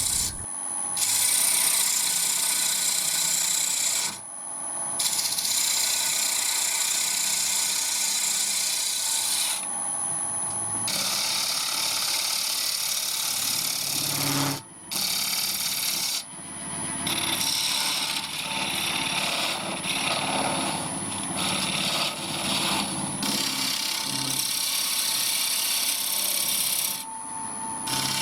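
Wood lathe spinning a walnut blank while a turning tool cuts a slight taper into it: a steady scraping hiss, broken by several brief gaps.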